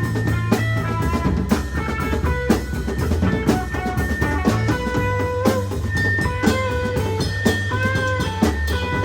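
Live band playing an instrumental passage: a drum kit keeps a steady beat, about two hits a second, under held, shifting guitar notes and a sustained low bass.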